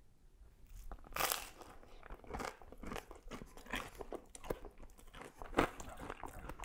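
A person biting into a crisp falafel waffle piled with spicy lamb and cheese: the loudest crunch comes about a second in, then steady chewing with many small crunches and mouth clicks.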